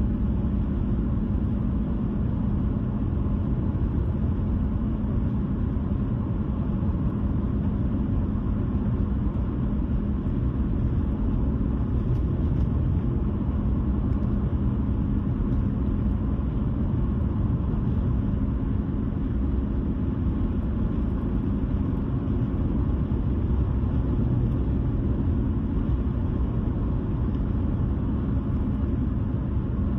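Car driving at a steady speed: an even, low rumble of road and engine noise.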